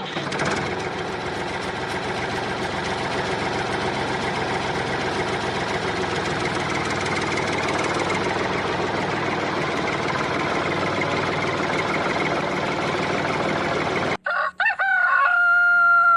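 A rooster crowing once near the end, one long drawn-out call. Before it, for most of the time, there is a steady, dense din.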